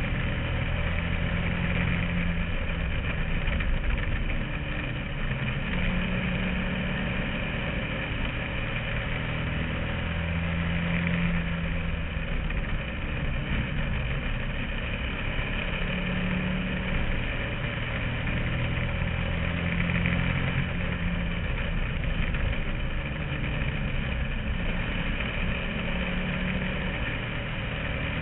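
Bandolero race car's small engine running on track, heard from inside the car. The engine note swells and eases every four to five seconds as the throttle is opened and lifted around the oval, over steady road and wind noise.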